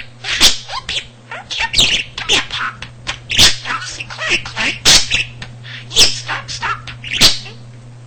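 Pet budgerigar chattering: a rapid run of sharp chirps and clicks, several of them loud, over a steady low hum.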